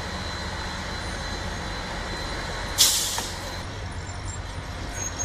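A diesel train running steadily with a low hum. About three seconds in, a sudden loud hiss of released air fades over about a second.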